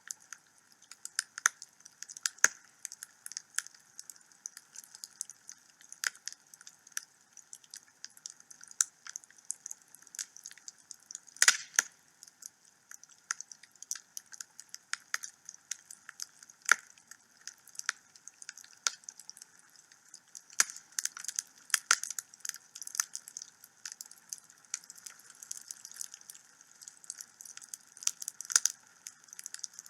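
Wood fire in a fireplace crackling, with irregular sharp snaps and pops and one louder pop about eleven seconds in.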